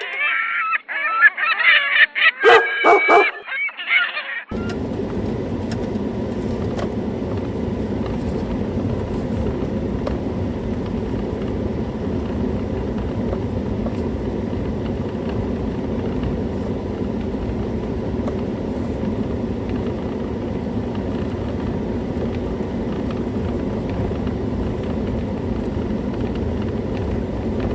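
Loud honking calls with wavering pitch for about four seconds, cutting off abruptly, then steady, even background noise.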